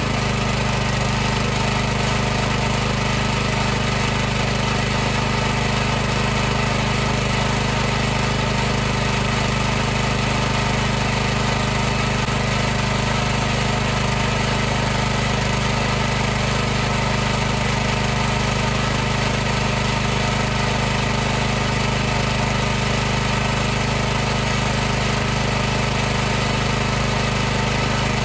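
High-pressure washer running continuously: the pump's steady, unchanging mechanical hum with a hiss over it.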